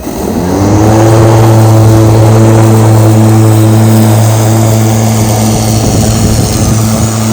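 Milwaukee M18 cordless electric lawn mower's blade motor spinning up, its hum rising in pitch over about the first second, then running loud at a steady pitch.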